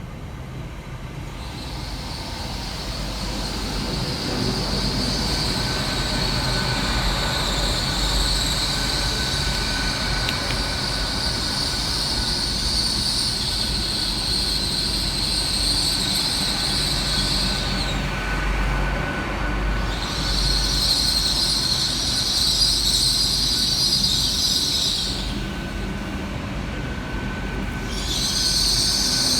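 LNER Class 800 Azuma train pulling into the station: a low rumble that grows louder over the first few seconds, with a high-pitched squeal as it slows that comes in three spells, breaking off about two-thirds of the way through and again near the end.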